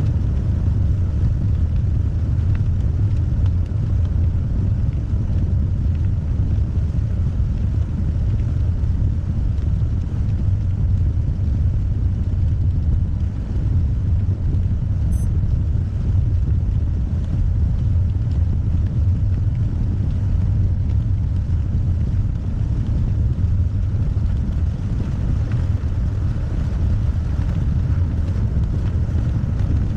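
Steady low rumble of a car driving, the road and engine noise even and unbroken.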